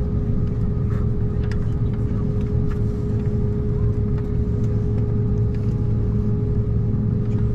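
Steady cabin noise of an Embraer 190-E2 jet with its Pratt & Whitney geared turbofan engines running: a low, even hum with a steady tone above it, heard from inside the passenger cabin.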